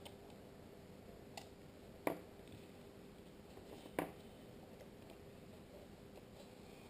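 Three short, faint clicks, the last a little louder, from the small parts of an IP camera being handled during reassembly.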